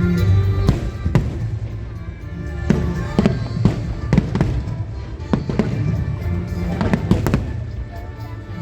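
Aerial fireworks bursting in an irregular string of sharp bangs, with music playing under them.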